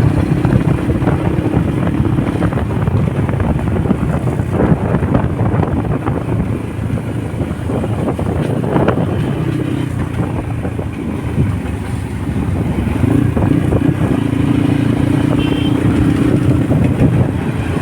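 Honda motorcycle engine running under way, its hum steady and easing off and picking up again as the throttle changes, over rushing road noise.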